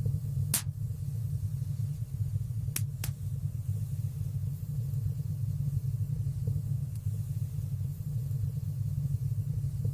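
Wood fire burning in a fireplace: a steady low rumble of flames with sharp crackling pops, one about half a second in and two in quick succession near three seconds.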